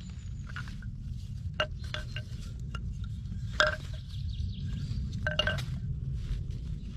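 Hard objects clinking together in a few light knocks, each ringing briefly with a clear tone; the loudest comes about halfway through. A steady low rumble runs underneath.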